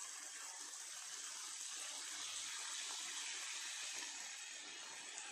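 Chicken in tomato masala sizzling on a hot tawa: a faint, steady, even hiss.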